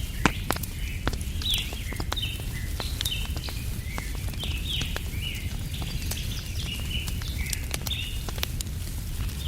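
Wood fire crackling, with sharp irregular pops, over a constant low rumble. Small birds chirp throughout in short repeated high notes.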